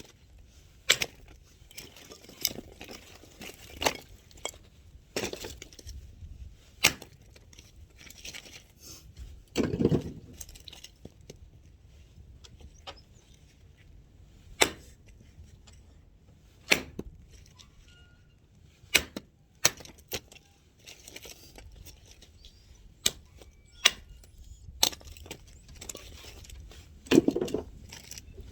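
Axe blows striking firewood: sharp cracks coming every second or two, irregularly, with two heavier, longer thuds, one about ten seconds in and one near the end.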